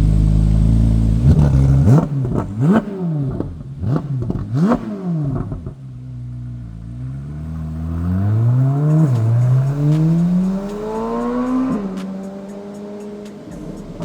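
2024 Corvette C8 Z06's 5.5-litre flat-plane-crank V8 on its factory exhaust, which is pretty loud as is. It idles, is blipped through about five quick revs, then pulls with a long rising note, drops once and climbs again before backing off to a lower steady note.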